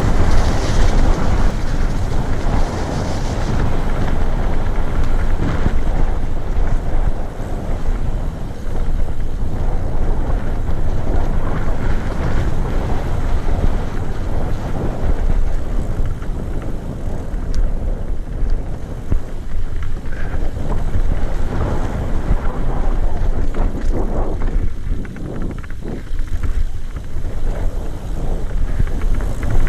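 Wind rushing over the microphone and the rumble and rattle of a mountain bike on studded tyres rolling down a dirt trail, running on without a break.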